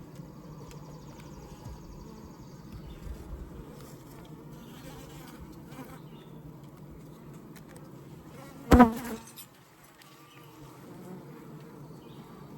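Honeybee colony humming steadily from an open Layens horizontal hive, with one sudden loud, short burst about three-quarters of the way in.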